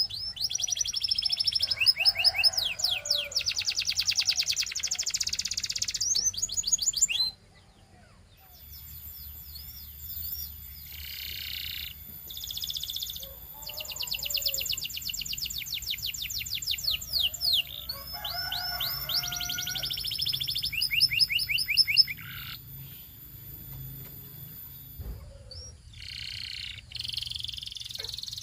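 Belgian canary singing in long, fast trills and runs of repeated falling whistles. The song breaks off about seven seconds in, falls nearly silent for a second or so, then resumes with varied trill phrases.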